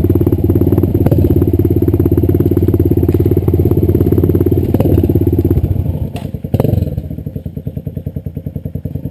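Dirt bike engine pulling at steady revs on a climb. About six seconds in the throttle is closed and it drops to a slower, quieter low-rev beat, with one short blip of throttle and a couple of knocks as it slows.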